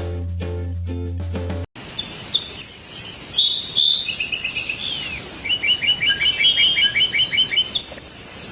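A plucked-string intro tune with a steady beat cuts off about 1.7 s in. Birds chirping and whistling follow, with a fast run of repeated short chirps in the second half.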